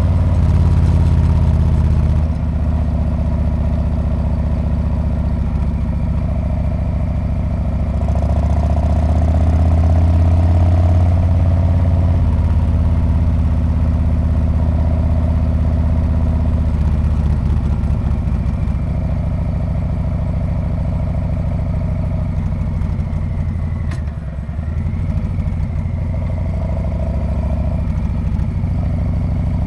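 Harley-Davidson Street Bob's V-twin running through its muffler while riding along. It swells louder partway through, dips briefly with a click about three-quarters of the way in, then picks up again.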